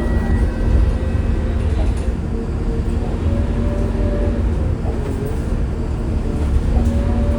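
Scania K230UB city bus running in service, heard from on board: a loud, steady low engine rumble with a constant hum and a faint wavering whine above it.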